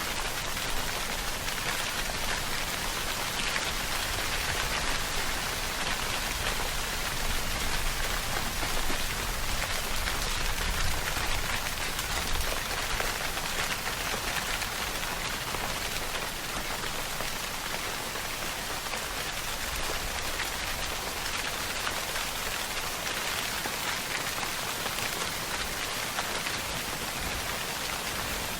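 Steady rainfall: a dense, even patter of countless drops that swells slightly for a few seconds in the middle.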